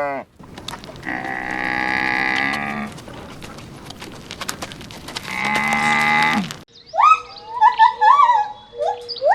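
A farm animal lowing: two long, moo-like calls a few seconds apart, with scattered clicks between them. Near the end, short chirps rising and falling in pitch take over.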